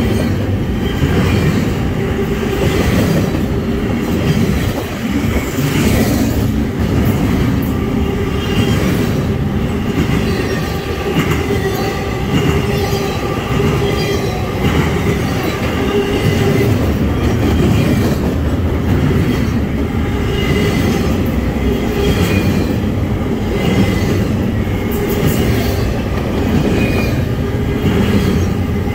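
Double-stack intermodal well cars rolling past at close range: a loud, steady rumble and clatter of steel wheels on rail. Thin high-pitched wheel squeal comes and goes, and there are scattered clicks.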